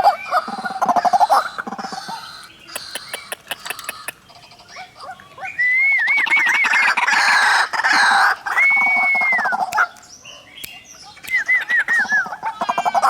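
White-breasted waterhens calling in bouts of rapidly repeated notes, with a loud stretch of looping whistled calls in the middle that returns briefly near the end.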